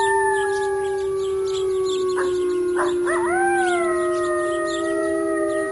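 Wolves howling together: several long, held howls overlap at different pitches, and a new howl rises in and then slides down about three seconds in.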